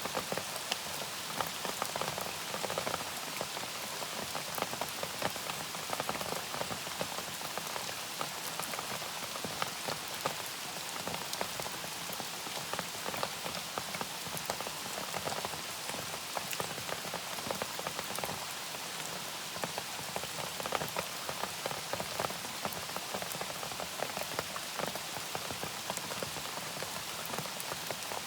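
Steady, gentle rain falling, a dense even patter of countless drops hitting a surface.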